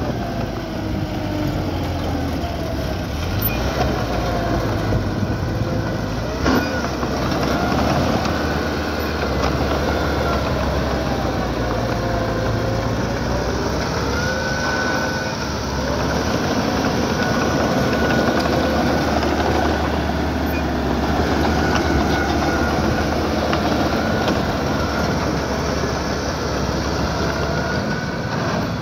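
Small crawler bulldozer working: its diesel engine runs steadily while the steel tracks clank and squeal with wavering pitch. A single sharp knock comes about six and a half seconds in.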